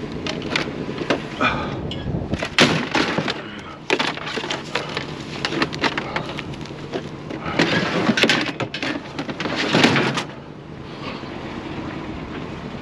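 Junk and debris being rummaged through: clattering, knocking and crunching, with a dense run of loud crashes about eight to ten seconds in.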